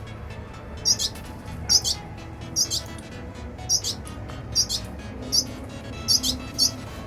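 Red siskins chirping: about a dozen short, high calls, often in quick pairs a fraction of a second apart, over a low steady hum.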